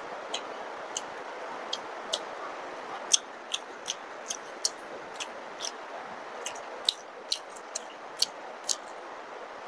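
Close-miked chewing of soft luchi (puffed fried bread) with potato-paneer curry: sharp, wet mouth clicks and smacks, irregular at about two a second. Underneath is a steady hiss of heavy rain.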